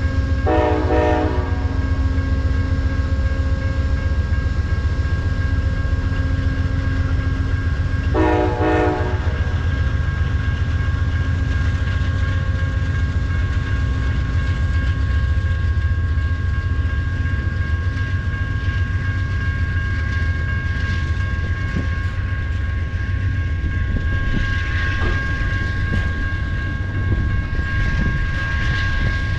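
Amtrak California Zephyr's diesel locomotives rumbling steadily as the train pulls out, with a steady high whine. The horn sounds two short blasts, one near the start and one about eight seconds in. Near the end, wheels click over rail joints.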